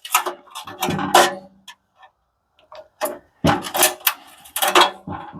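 Small steel parts clicking and clinking as they are worked loose and handled: two clusters of sharp clicks and knocks with a quiet gap between them.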